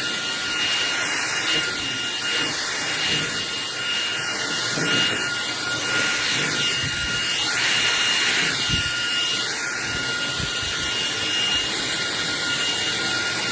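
Vacuum cleaner running steadily: rushing air noise with a steady high-pitched motor whine.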